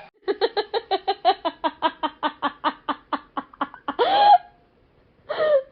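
A rapid string of short pitched vocal pulses, about eight a second, followed by two longer drawn-out calls.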